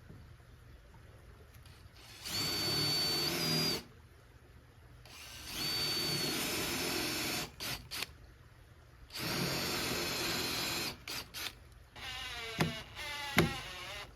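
Power drill driving screws into wood: three runs of a second and a half to two seconds each, the motor whine stepping up in pitch during each run, and a few short trigger blips between them. Two sharp knocks come near the end.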